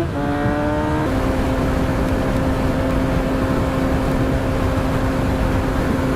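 Motorcycle engine shifting up twice, right at the start and again about a second in, then holding a steady pitch at a constant speed over a broad rush of wind noise.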